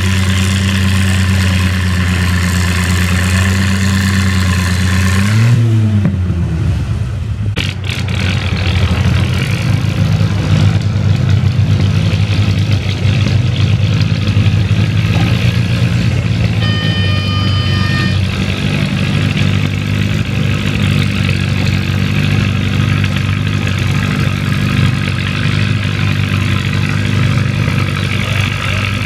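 Antique tractor engine running steadily, then its pitch bends up briefly about five seconds in before settling into a lower, rougher run. A short high-pitched tone sounds once near the middle.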